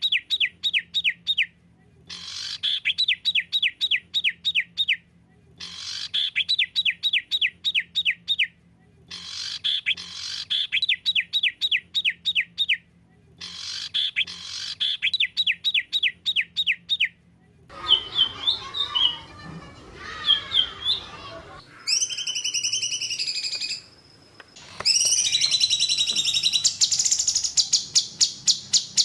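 Songbird song for bird training: about five repeated bursts of rapid, evenly spaced high falling notes, then a few varied calls, and a high, fast trill held over the last few seconds.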